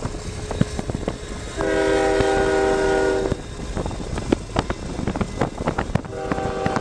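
Freight locomotive horn sounding a blast of about a second and a half, several notes at once, then starting a second blast near the end, over the steady rumble and clicking of the moving train.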